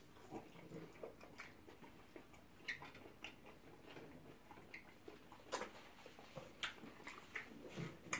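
Faint chewing and lip-smacking of people eating pounded yam and slimy ogbono soup by hand, with scattered short, wet clicks.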